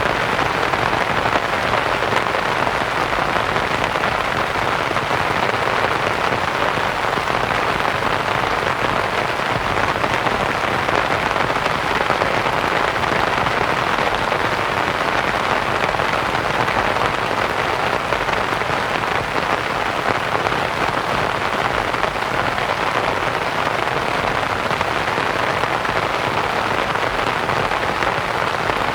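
Steady rain pattering on a canvas tent, mixed with a soft white-noise hiss.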